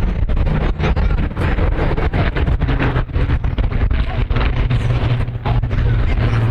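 Rolls-Royce V12 piston engine of a Second World War fighter in a display pass, a steady drone that grows louder near the end, with gusts of wind on the microphone.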